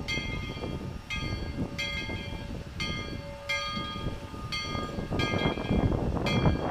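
Locomotive bell ringing steadily, about one stroke a second, over the low rumble of the moving train, which grows louder near the end.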